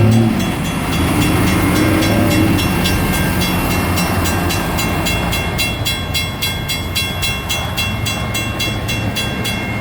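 A freight train rumbles through a grade crossing while the crossing's mechanical bell and electronic bell ring steadily, a few strikes a second. The bell strikes stand out more clearly in the second half as the train's rumble eases.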